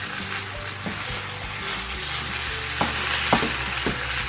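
A rice and vegetable mixture sizzling in a frying pan while being stirred with a wooden spoon. About three seconds in come three short knocks of the spoon against the pan.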